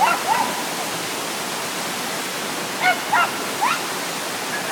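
Steady rush of a waterfall, with a few short high-pitched sounds just after the start and again about three seconds in.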